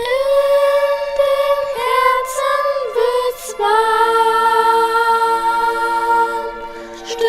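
Christmas song: a voice singing long, held notes over an instrumental backing track.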